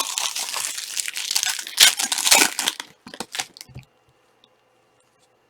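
Crinkling and tearing of trading-card pack wrappers as packs are handled and opened; the crackling stops abruptly about four seconds in.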